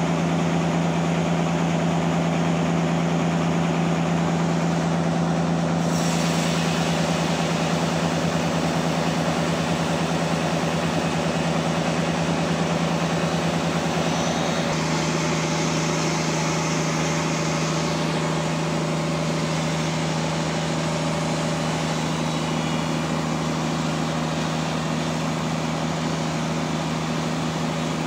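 Sawmill machinery running steadily with a strong, even engine hum. A brighter hiss joins about six seconds in, and the hum shifts slightly about halfway through.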